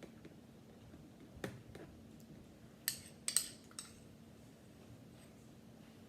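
A metal spoon clinking against a bowl while melted chocolate is spooned into yogurt: a single light clink, then a quick cluster of sharper clinks about three seconds in.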